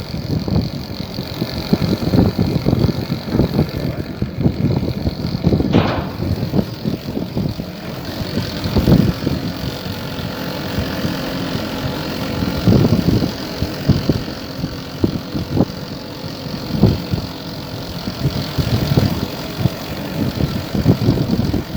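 Wind buffeting the microphone over the steady low hum of a ship's engine underway, with a single sharp click about six seconds in.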